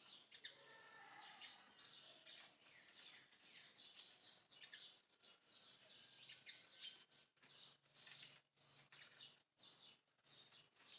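Faint, rapid high-pitched chirping calls made of many short falling notes, with a few lower gliding calls about a second in.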